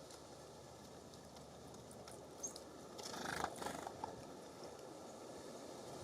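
Faint steady breeze hiss, with a short burst of scratching and rustling about three seconds in from birds moving on a feeder.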